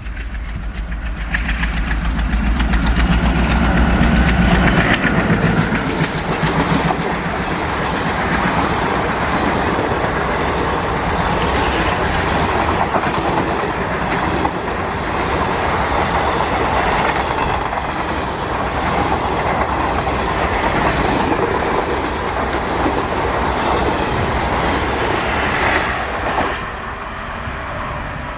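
A diesel-hauled train passes close by. The locomotive's engine is loudest for the first few seconds, then a long rake of coaches or wagons rumbles and clatters over the rails. The clatter falls away sharply a couple of seconds before the end as the last vehicle goes by.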